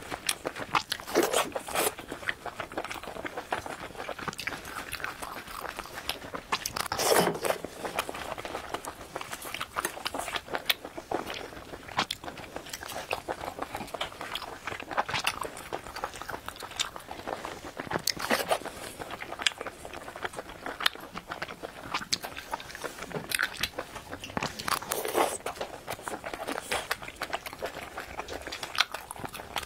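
Close-miked chewing and biting of seafood pulled from skewers in spicy sauce, with many short sharp clicks and brief wet bursts at irregular intervals.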